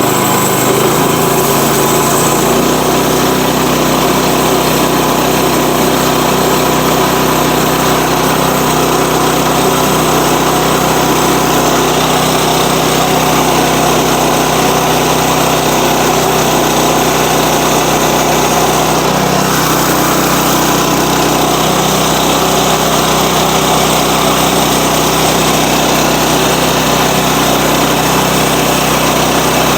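Portable sawmill's engine running steadily at constant speed under load while the saw cuts a 2-inch plank from a log.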